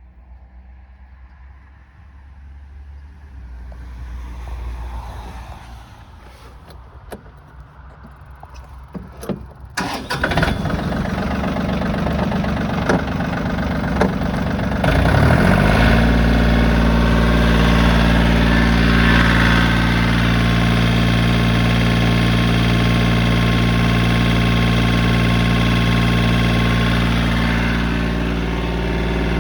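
Yanmar AF26 compact tractor's diesel engine started: a few clicks, then about a third of the way in the starter cranks and the engine catches, rising within a few seconds to a steady idle.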